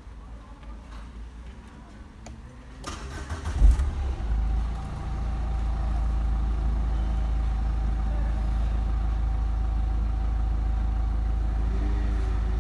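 Renault Clio 4 engine cranked by the starter about three seconds in, catching and settling into a steady idle. The start shows that the repaired key card is now recognised.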